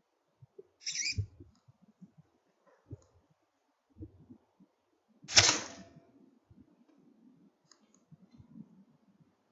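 A single sharp crack about five seconds in, the shot of an air rifle firing a pellet, dying away within half a second. A few faint low knocks and a brief high click come before it.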